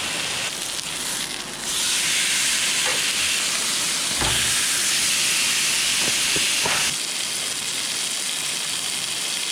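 Steaks sizzling while they cook, a steady hiss that grows louder about two seconds in and eases back down about seven seconds in, with a few light clicks in between.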